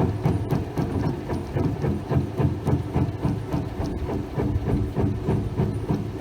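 A 20 HP poly exhaust blower with a 1750 RPM, 480-volt three-phase motor running on test. It gives a steady low rumble with a fast, uneven flutter.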